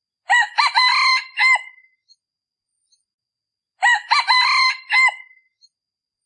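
A male decoy junglefowl rooster crowing twice, each crow short and clipped, about three and a half seconds apart. This is the call used to lure wild junglefowl cocks.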